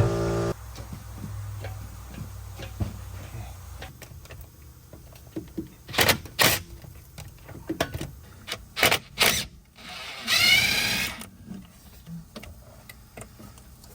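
Sharp metallic clanks and knocks from work on a BMW E46's rear axle, with a short, wavering, squeaky scrape about ten seconds in.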